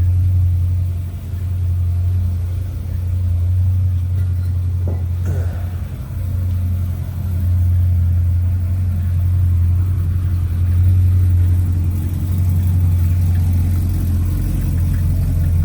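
2010 Corvette ZR1's supercharged 6.2-litre V8 idling steadily, with a low, even exhaust note.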